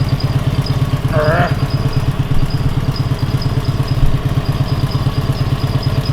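Air-cooled flat-twin engine of a Dnepr MT motorcycle idling steadily on petrol, with an even, unchanging beat.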